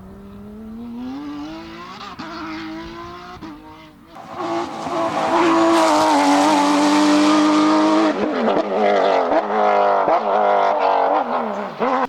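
Porsche GT3 rally car's flat-six engine approaching with the revs climbing, then passing close at high, steady revs with a loud hiss from about four seconds in. Over the last few seconds the revs drop and rise again several times in quick succession, as with gear changes and throttle blips.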